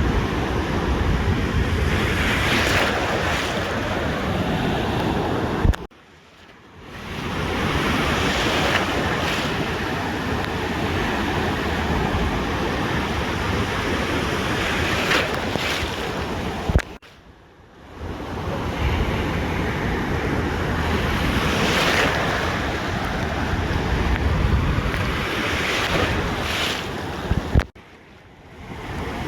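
Ocean surf washing onto a beach, a steady rush that swells as waves break every few seconds, with wind rumbling on the microphone. Three times the sound cuts off abruptly with a click and fades back in about a second later.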